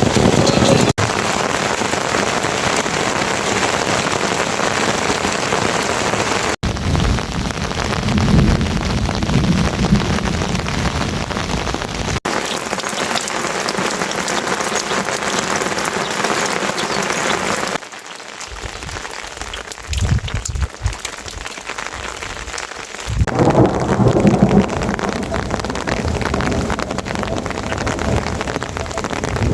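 Heavy rain falling, a dense steady hiss that changes abruptly several times. It drops to a lighter, quieter patter for about five seconds past the middle, then comes back heavy.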